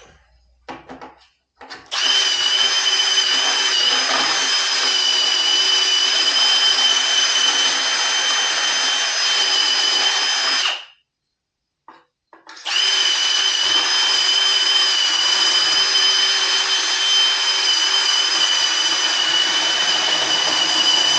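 Power drill running at steady speed to enlarge a mounting hole, a constant high whine. It runs for about nine seconds, stops briefly, then starts again and runs on.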